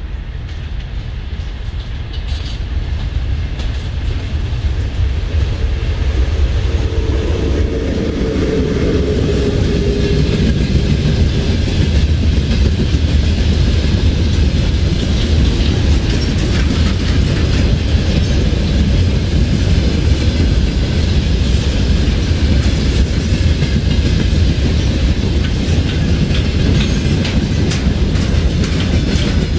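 Freight train passing close by. A heavy, deep rumble builds over the first dozen seconds as the train arrives, then holds steady while the wagons roll past, with the clickety-clack of wheels over rail joints.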